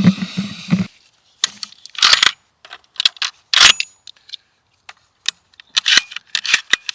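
A series of irregular clicks, clacks and short rattles of hunting gear being handled at close range.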